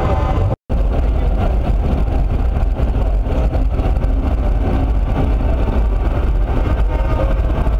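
Steady low rumble of heavy truck engines, noisy and without a clear pitch, after a brief dropout about half a second in.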